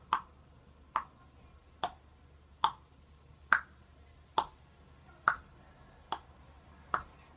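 A sharp click repeating at an even pace, a little more than once a second, nine times in a row.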